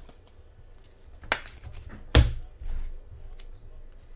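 Trading cards handled on a tabletop: a few light clicks, and a louder thunk about two seconds in.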